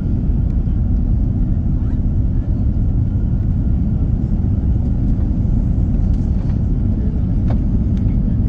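Steady low rumble inside the cabin of a four-engine Airbus A340-300 airliner: engine and airframe noise heard from a passenger seat, even throughout.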